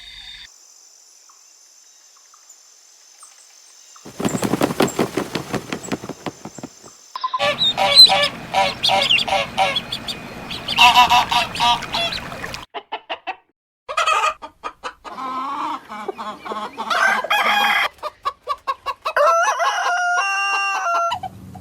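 Chickens clucking and calling in several separate takes: a run of rapid clucks about four seconds in, then louder drawn-out fowl calls, with a faint steady high whine in the first few seconds.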